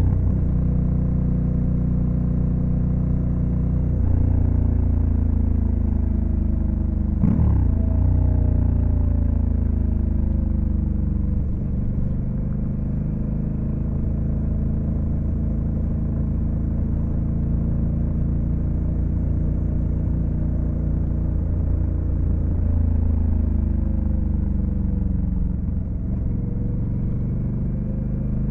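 2022 Honda Africa Twin CRF1100L's parallel-twin engine running under way. The engine pitch swoops sharply about seven seconds in, then eases down over several seconds, holds steady, and drops again near the end.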